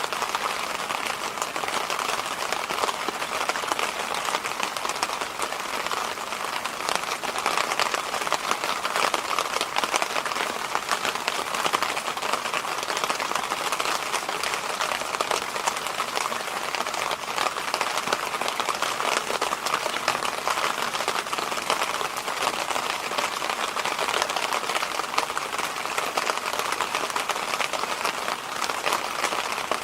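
Electric fan running steadily, an even rush of air with no change in speed, strongest in a mid-pitched band.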